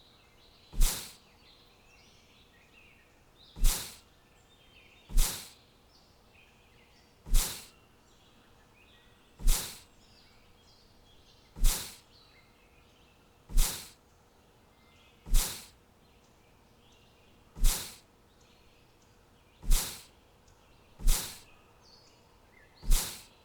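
A short, sharp hissing hit, repeated about every two seconds, each dying away quickly. Faint bird chirps run underneath.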